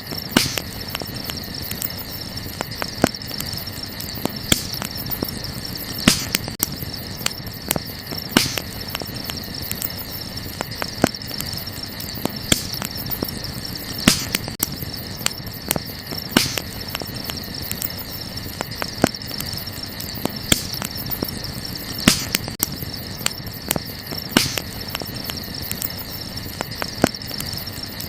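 Wood fire crackling, with sharp pops every second or two over a bed of small crackles. A steady chorus of crickets chirps underneath.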